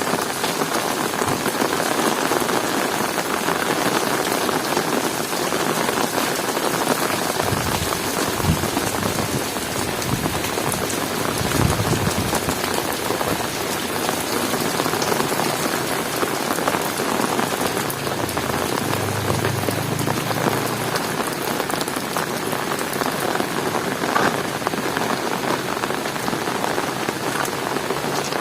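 Heavy rain falling steadily, a dense even hiss of raindrops hitting the ground.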